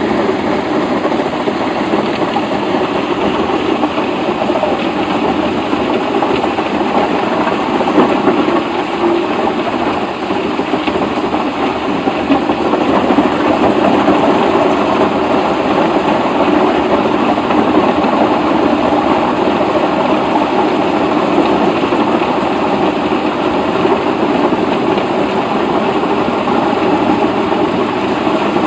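Heavy machinery running steadily under load: a loud, even engine drone mixed with a dense grinding noise that hardly changes.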